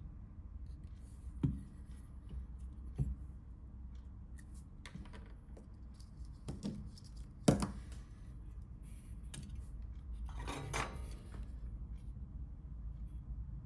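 Small tools and the Nokia 3310's plastic and metal parts being handled: scattered sharp clicks and taps, the loudest about halfway through, then a short scraping rustle near the end.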